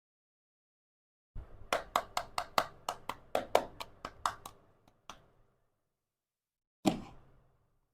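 Small toy kitchen pieces being handled: a quick run of sharp clicks and taps, about five a second, fading out, then a single louder knock near the end.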